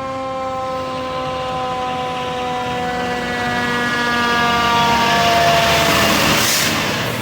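Fire truck siren sounding with a slowly falling pitch as the truck passes close by, growing louder to a peak about five seconds in. A rush of engine and road noise about six and a half seconds in as it goes past.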